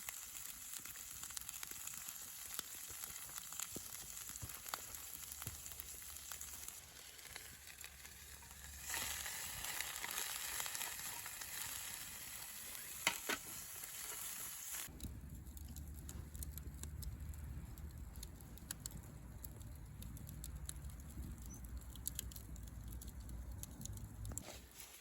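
Food sizzling in a hot pan, a steady hiss with fine pops that gets louder about a third of the way in. About halfway through it gives way to a low rumble with scattered sharp crackles, like a campfire.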